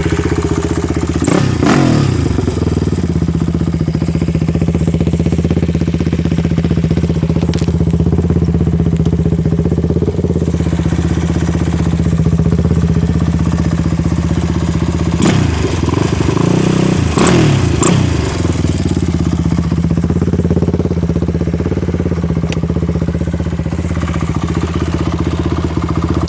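Honda TRX450R's single-cylinder four-stroke engine idling through an HMF full aftermarket exhaust, with quick throttle revs about two seconds in and a few more past the middle.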